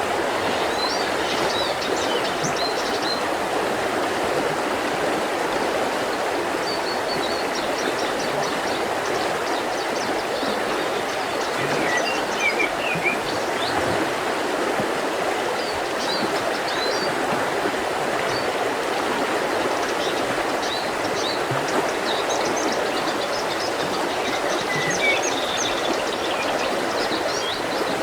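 A mountain river rushing steadily over rocks, with small birds singing high chirps and trills above it throughout.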